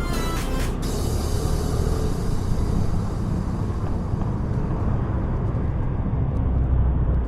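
Background music cutting off about a second in, followed by a steady low rumble and hiss of motorcycle riding noise: wind and road noise on a helmet or action-cam microphone.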